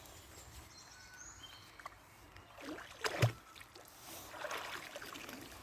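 Water splashing and sloshing as a magnet-fishing magnet is hauled in on its rope, with one sharper splash about three seconds in.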